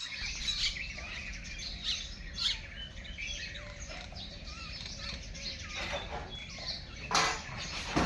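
Pigeons' wings flapping in short bursts, the loudest a little after seven seconds, amid many quick, high bird chirps.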